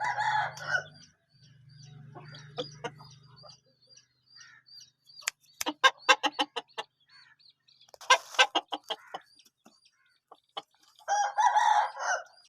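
Aseel roosters crowing, one call at the start and another near the end, with clucking between. In the middle comes a run of sharp clicks and taps, and faint short chirps repeat throughout.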